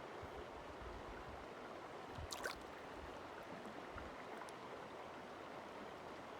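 Steady rushing of a stream or river, with a brief sharp click about two and a half seconds in.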